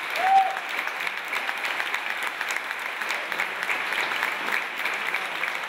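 Concert audience applauding steadily with dense hand clapping, and a brief shout from the crowd in the first half second.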